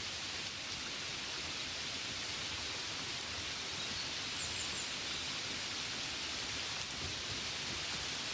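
Steady, gentle rain falling on a window: an even, continuous hiss of drops.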